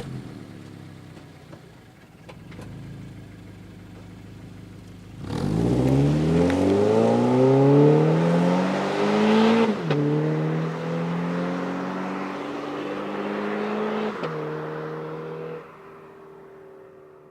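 Toyota 86's 2.0-litre flat-four exhaust. The revs fall away and the engine runs low for a few seconds, then it accelerates hard from about five seconds in, with the pitch climbing steeply. The pitch drops at an upshift near ten seconds and again near fourteen, and the sound fades toward the end.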